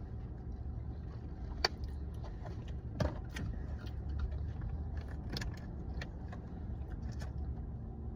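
Steady low rumble of a car cabin, with scattered small clicks and rustles from handling food and packaging; the sharpest clicks come about a second and a half and three seconds in.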